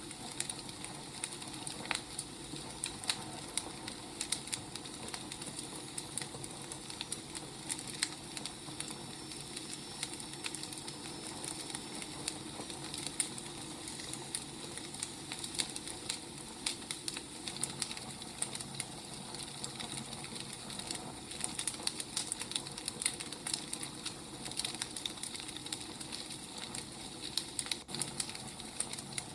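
Burning firewood crackling: irregular sharp pops and snaps over a steady hiss.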